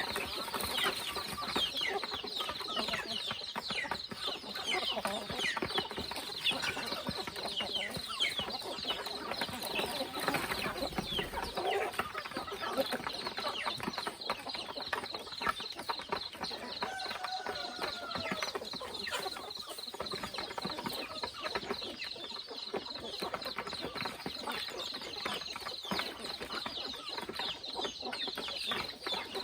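Chickens clucking: a flock giving many short, overlapping calls throughout, with no pause.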